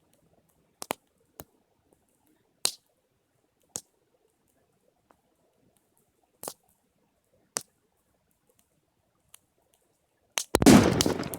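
A campfire gives scattered sharp pops, one every second or so. About ten seconds in, an aerosol or gas canister heated in the fire bursts with a loud bang, followed by about a second of rushing noise.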